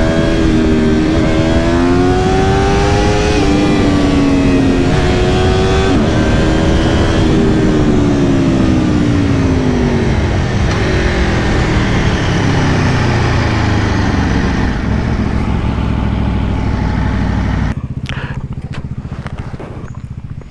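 Aprilia Tuono V4 Factory motorcycle's V4 engine under way, its revs climbing over the first few seconds and then winding down steadily as the bike slows, with a rush of wind over it. Near the end the sound drops to a quieter low rumble with a few clicks.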